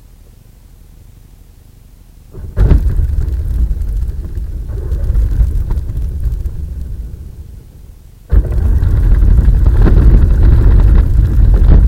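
Traxxas Rustler RC stadium truck driving, heard from a camera mounted on the truck: a loud rumble of motor, wheels and ground noise that starts suddenly about two and a half seconds in. It dies down near eight seconds and comes back loud a moment later.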